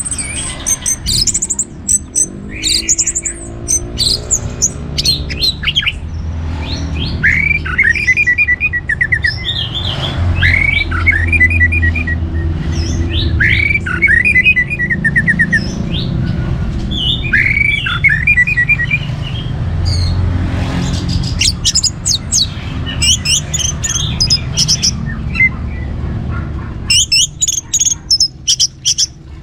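Orange-headed thrush singing: loud, varied phrases of sweeping notes and short trills repeated every few seconds, mixed with high chirps, and a run of quick sharp notes near the end. A steady low rumble runs underneath.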